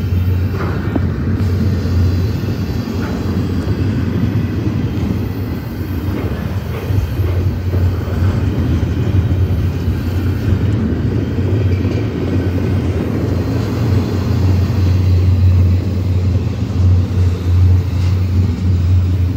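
Double-stack container train's well cars rolling past close by: a steady low rumble of steel wheels on rail.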